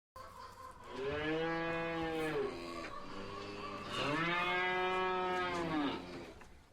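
A cow mooing twice: two long, drawn-out moos, the second starting about four seconds in.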